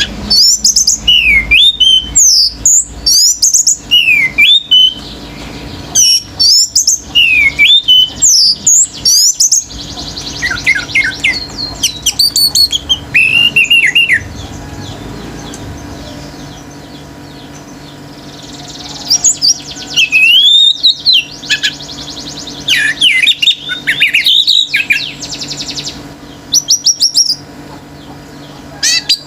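Orange-headed thrush singing hard, in loud rapid phrases of sweeping whistled notes with short pauses between them. Through the middle the song drops to softer chatter, and the loud phrases start again at about two-thirds of the way through.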